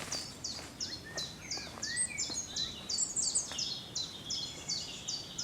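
Woodland birdsong: one bird repeats a short high note about two or three times a second, steadily, while another bird adds a few lower whistled chirps near the middle.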